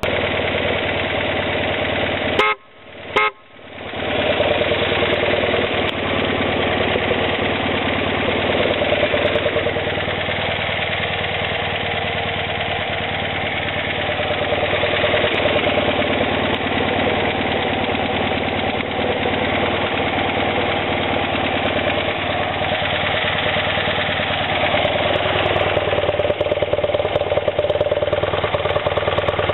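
1976 BMW R90S's air-cooled flat-twin (boxer) engine running steadily at idle. The sound drops out twice briefly about two and a half seconds in.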